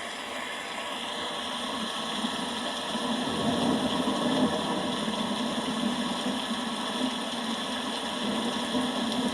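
Steady rain with a low rumble of thunder that swells about three seconds in and rolls on.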